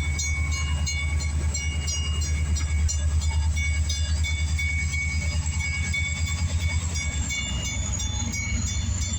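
CSX diesel locomotive's engine running with a steady low throb as it shoves its cars back. The throb grows more pulsing in the second half, with thin high-pitched tones coming and going above it.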